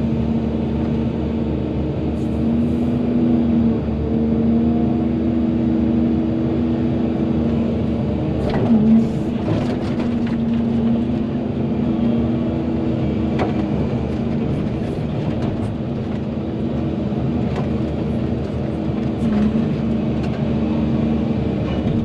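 Volvo EC220DL excavator's diesel engine running steadily under working load, its pitch shifting slightly as the hydraulics take up the digging, with a few scattered knocks and clunks from the machine at work.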